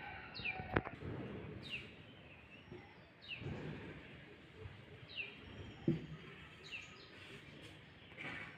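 A bird calling outdoors, a short chirp that slides down in pitch, repeated about five times at uneven intervals, over a low background rumble with a couple of sharp knocks.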